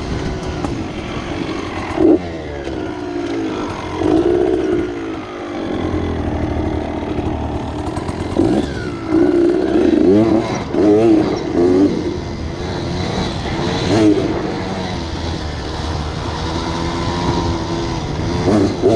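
Dirt bike engine running under changing throttle on a trail ride, its note rising and falling over and over, with a run of quick revs near the middle.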